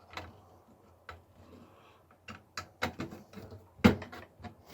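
Small plastic and metal computer parts and cables being handled, giving scattered sharp clicks and knocks, sparse at first and coming more often after about two seconds, with one louder knock near the end.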